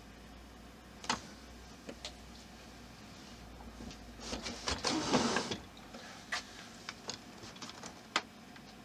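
Small model parts being handled and pushed into place: scattered sharp clicks, with a short spell of scraping and rattling about four to five and a half seconds in.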